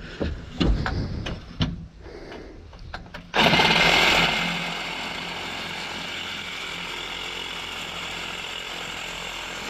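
A few knocks and clicks of handling metal, then about three seconds in a reciprocating saw starts and runs steadily, cutting through aluminum railing.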